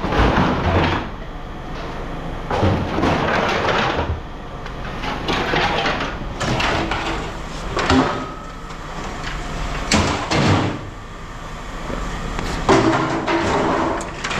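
Pieces of scrap metal clanking and scraping as they are handled and tossed into bins, with irregular sharp knocks every second or two.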